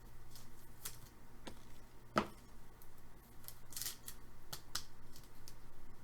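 Trading cards and their packaging being handled at close range: light rustling with a run of small clicks, and one sharper click about two seconds in.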